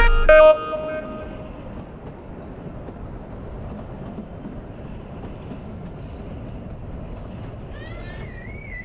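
Steady running noise of the Kalka–Shimla narrow-gauge toy train, heard from on board. A bird calls a few times near the end.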